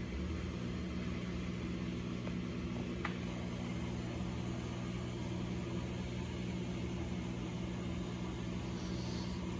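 Amana ADB1400AGW dishwasher running at the start of its cycle: its pump motor gives a steady electric hum over a rushing noise.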